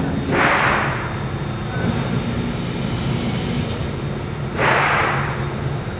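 Steady low mechanical hum, with two short rushes of noise, one about half a second in and one near the end.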